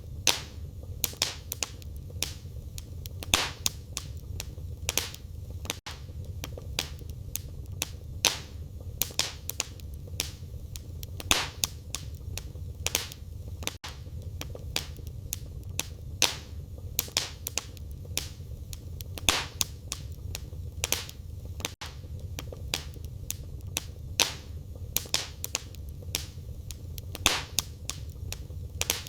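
Firewood burning in a fireplace: frequent sharp crackles and pops at irregular intervals, some much louder than others, over a steady low rumble of the flames.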